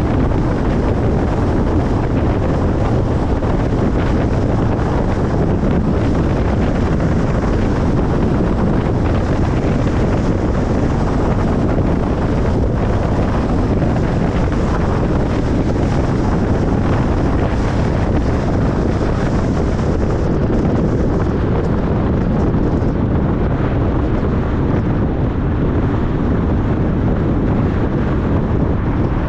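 Steady road noise of a car driving: an even, unchanging rushing rumble of tyres and wind, strongest in the low end.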